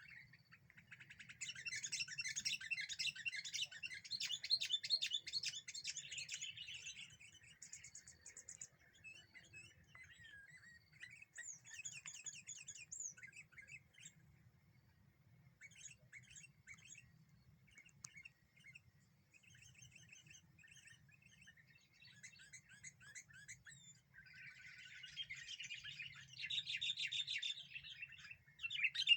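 Several small wild birds chirping and chattering in quick, rapid-fire calls, as birds do when agitated. A dense burst of chatter comes in the first few seconds, sparser calls follow, and a second dense burst comes near the end.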